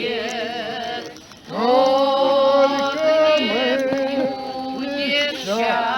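People singing a Russian song together, with long held notes and vibrato. There is a short break for breath about a second in, then the singing comes back louder.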